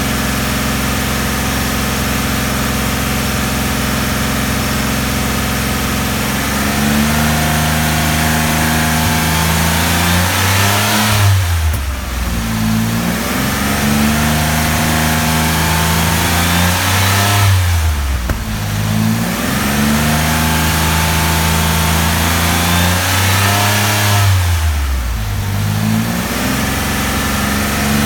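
1988 Porsche 959's twin-turbocharged flat-six running during its warm-up. It idles steadily at first. About six seconds in it is raised to a higher held speed, and the revs drop and climb back three times, about every six or seven seconds.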